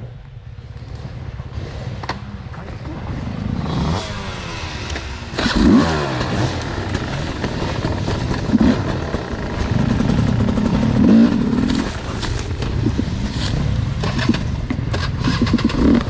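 Enduro dirt bike engine running and revving, the pitch rising and falling as the throttle is worked, with short knocks and clatter near the end.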